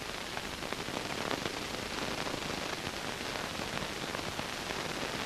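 Steady soundtrack hiss with faint scattered crackles, the surface noise of an old film's audio track; nothing else stands out.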